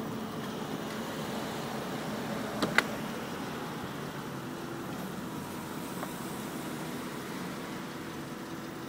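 Electro-hydraulic mechanism of a 2003 Mercedes-Benz SL55 AMG's retractable hardtop running as the roof folds down: a steady hum whose pitch shifts about halfway through, with a single sharp click about three seconds in.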